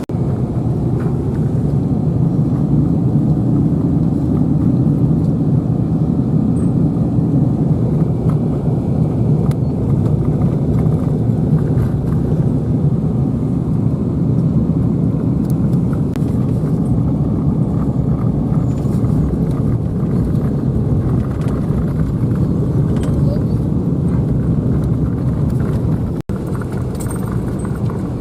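Motor vehicle driving along a road: a steady low rumble of engine and tyres. It drops out for an instant near the end.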